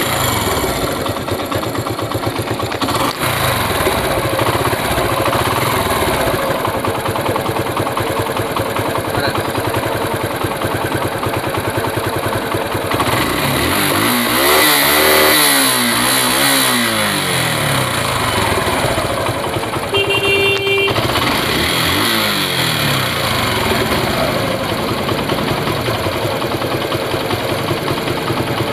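Suzuki Gixxer SF single-cylinder engine running with a freshly replaced timing chain, revved up and let back down twice. A short beep sounds about two-thirds of the way through.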